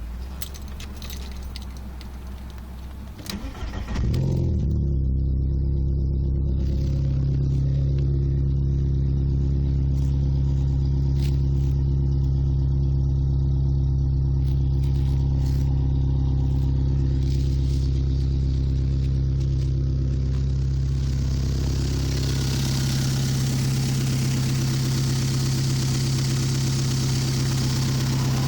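Volkswagen Golf IV 1.6 four-cylinder petrol engine with a Green Speed'r Twister open air intake, cold-started: after a few seconds of starting, it catches about four seconds in and then idles steadily. Past the middle, a rushing hiss comes in over the idle.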